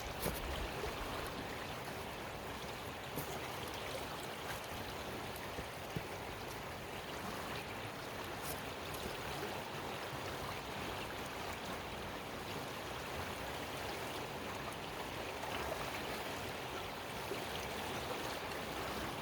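Creek water rushing steadily, with a few small clicks of stones or gear.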